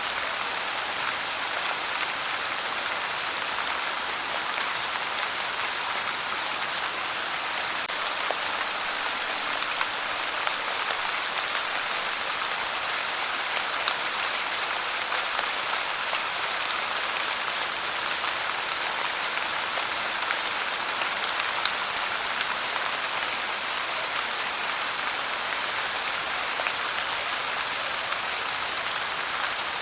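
Steady, even rain falling, with the fine patter of individual drops.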